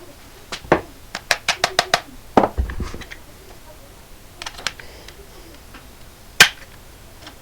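Sharp hard clicks and snaps: a single click, then a quick run of about six clicks, a heavier knock, and a loud sharp snap a little after six seconds.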